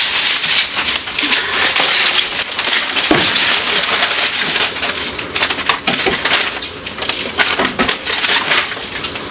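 Tap water running and splashing, with repeated small knocks and rattles of items being washed and handled in a sink.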